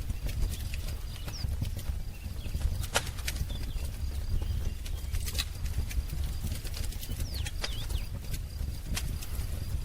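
Wood fire crackling, with scattered sharp pops over a steady low rumble. A few faint bird chirps come through, one about a second and a half in and a couple more near the seven-second mark.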